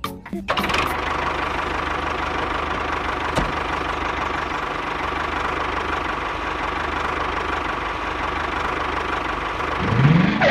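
An engine running steadily, its pitch rising briefly near the end as it revs.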